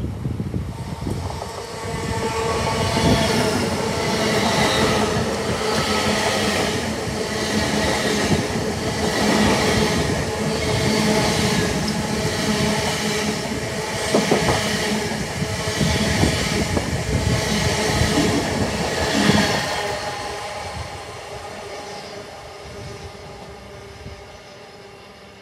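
Great Western Railway Hitachi Intercity Express Train passing: a rumble with a steady hum and a regular clatter of wheels about every second and a half. It builds over the first couple of seconds and fades away over the last five or so.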